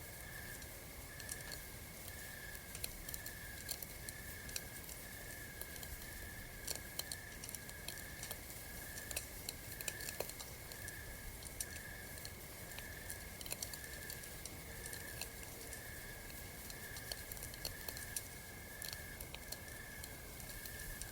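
Campfire crackling, with scattered small pops and snaps. Under it, a night insect chirps in a steady even rhythm, about one and a half pulses a second.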